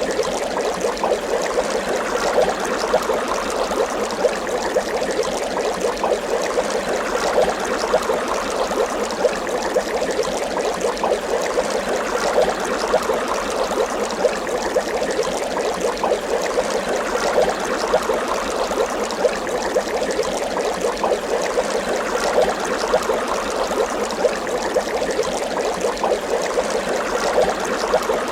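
Water bubbling steadily: a continuous stream of many small bubbles popping and gurgling.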